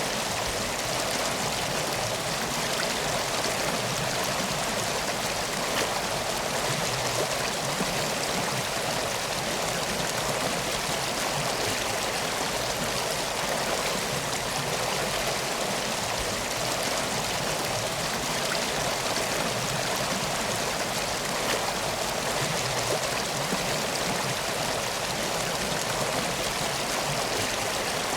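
Steady flowing water of a river or stream, an even rushing sound that does not change.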